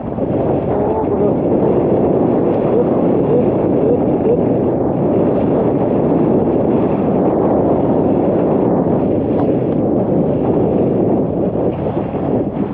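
Strong wind blasting across the microphone in a steady loud rush, on a small open boat in rough water.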